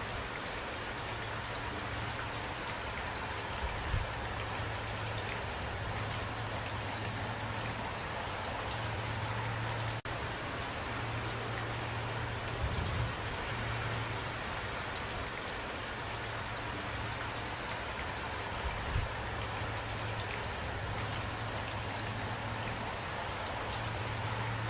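Steady rain falling, with individual drops hitting a surface. A few soft low thuds come about 4, 13 and 19 seconds in.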